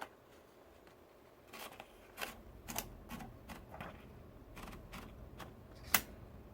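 Manual typewriter keys striking the paper one at a time at an uneven typing pace, about ten strokes, the loudest near the end.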